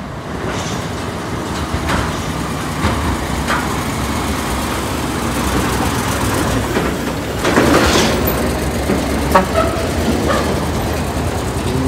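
Heavy truck's diesel engine running as the truck drives by on a steep climb, with a brief loud rushing noise about eight seconds in and a few sharp clicks after it.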